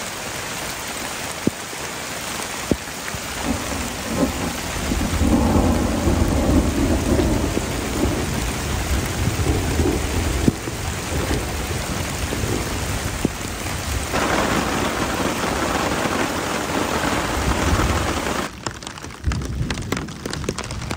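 Heavy rain pouring onto a tarp overhead, with thunder rumbling low, swelling about four seconds in and again near the three-quarter mark. Near the end the downpour cuts to a quieter patter of separate drops ticking on the tarp.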